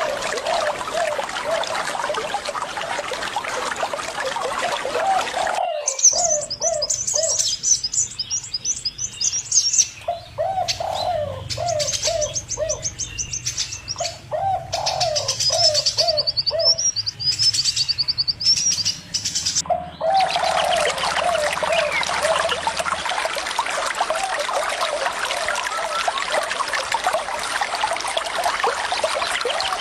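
Birds calling over running water: runs of short, low, repeated call notes go on throughout, with high, rapid chirping in the middle stretch. The steady rush of water drops out about six seconds in and returns about twenty seconds in.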